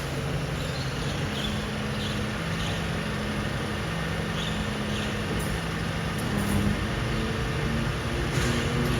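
Mercedes-Benz Arocs garbage truck's diesel engine running steadily, its pitch stepping up and down several times.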